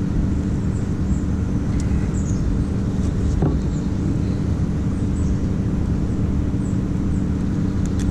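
Steady low drone of a running motor, holding an even pitch throughout, with faint high chirps above it.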